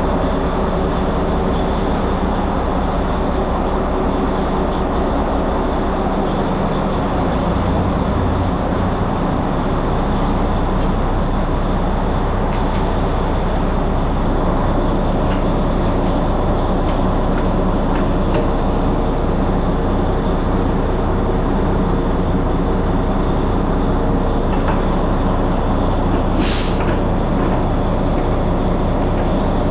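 Semi truck's diesel engine running steadily, its low rumble growing stronger about seven seconds in. A short, sharp hiss of released air comes about 26 seconds in.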